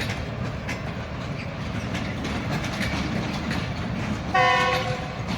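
Passenger train rolling past at low speed, its wheels clicking rhythmically over rail joints above a steady rumble. A little over four seconds in, a brief loud steady tone sounds for about half a second.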